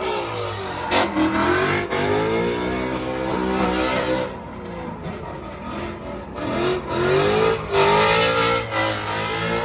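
A stunt-show car's engine revving hard, its pitch climbing and falling again and again, with tyre squeal and a few sharp cracks.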